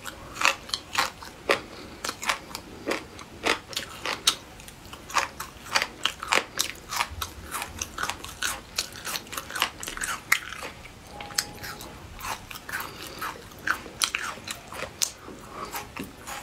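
Crunchy chewing of crisp spicy beef-skin strips, with irregular sharp crunches two or three times a second. The skin is still crisp after being frozen for a week and thawed.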